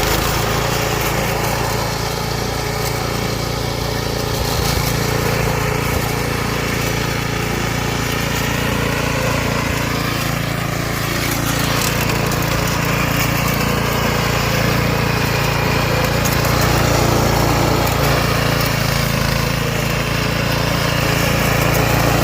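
Lawn mower running steadily, its pitch dipping and rising for a few seconds about halfway through.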